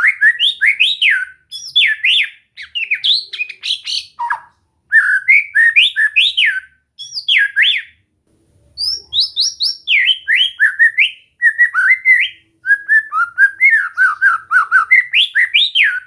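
White-rumped shama singing: phrases of fast, loud whistled notes that sweep up and down in pitch, repeated in runs a few seconds long with short pauses between them.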